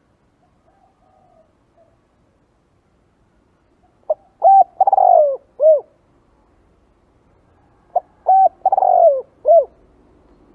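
Spotted dove cooing: two phrases about four seconds apart, each a couple of short notes, then a longer falling coo, then a short closing note.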